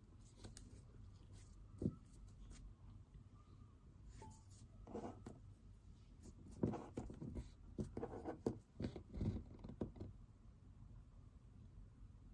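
Pen writing on paper: faint scratching strokes in short runs, busiest in the second half, with a sharp tap about two seconds in.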